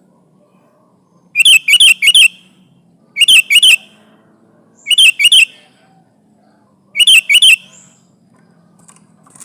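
Sooty-headed bulbul calling in short, loud phrases of two or three quick, sharp notes, repeated four times about two seconds apart.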